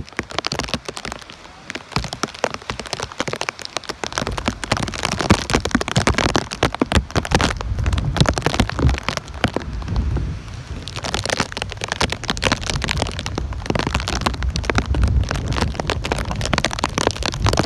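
Heavy tropical-storm rain, dense crackling drops hitting close to the microphone, with gusty wind rumbling on the microphone from about four seconds in.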